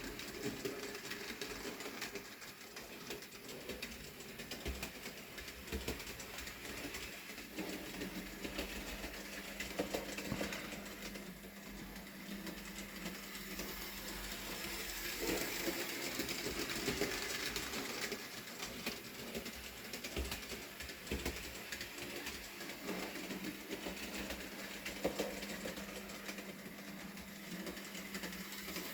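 Bachmann Peter Sam model locomotive running along the track, its small electric motor whirring with a steady hum under a fine, rapid clatter of wheels on the rails.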